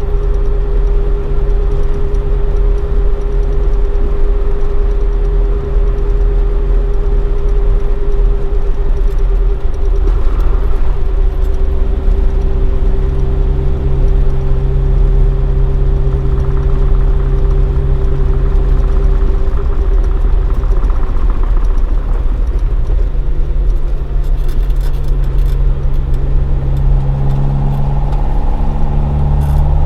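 Toyota AE86 Sprinter Trueno with a swapped AE111 20-valve 4A-GE on four individual throttle bodies, driving at cruising revs through a Fujitsubo Legalis R exhaust. The engine note holds steady for long stretches and shifts with changes in revs about ten seconds in and again a little past twenty seconds.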